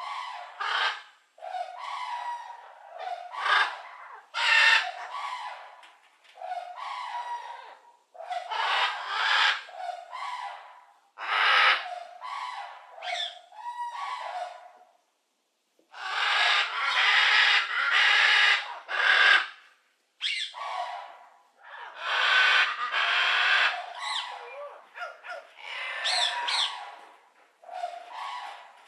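Birds calling in a run of loud bursts, some short, some lasting a few seconds, with brief pauses between them.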